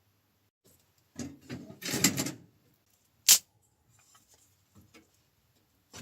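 Objects handled at close range: a second or so of rustling and scraping, then a single sharp clack, followed by a few faint ticks.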